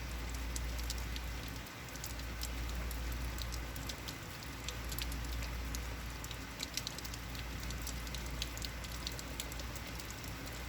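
Rain falling steadily, with many sharp ticks of single drops striking close by over a steady low rumble.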